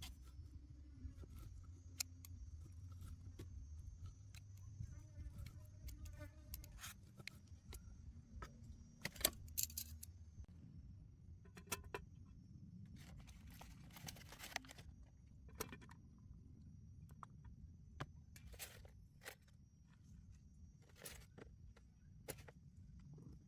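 Scattered light clinks, taps and rustles of small metal items being handled, with a cluster of clattering about nine seconds in and again around thirteen to fifteen seconds, over a low steady rumble.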